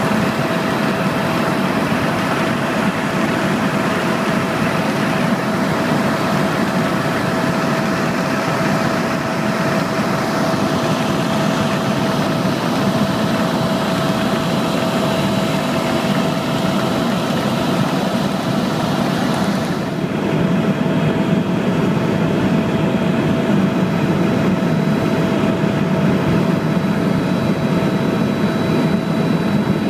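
Tour helicopter running steadily, a constant engine and rotor noise with a thin steady whine over it. About twenty seconds in, the high hiss drops away suddenly while the whine carries on.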